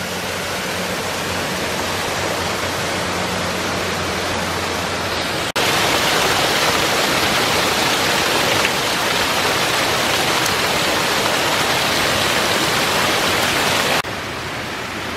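Steady rush of flowing water from a stream. About five seconds in it cuts to a louder, brighter rush, and near the end it drops back to a softer one.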